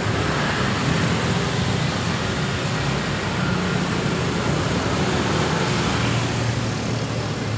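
Road traffic with vehicle engines running, a steady low hum under an even hiss.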